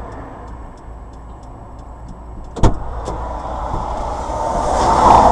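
Road vehicle running with a steady low rumble and faint fast ticking, then a sudden loud bang a little after halfway through, followed by a swelling rush of noise near the end.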